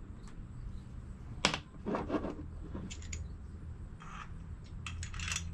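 Metal engine parts and tools being handled on a bench: a sharp click about a second and a half in, a short scrape, then a few small clicks and clinks, over a steady low hum.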